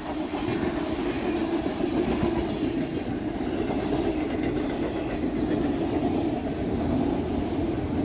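CSX freight train rolling past at a steady pace, its wheels rumbling on the rails without a break.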